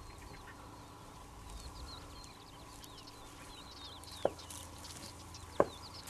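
Small birds chirping in quick, high, down-slurred notes over faint wind, with two sharp knocks about a second and a half apart near the end.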